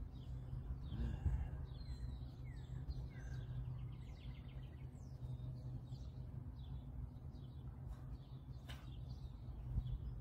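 Small birds chirping and calling again and again, with one short trill, over a steady low background rumble. A single sharp click sounds near the end.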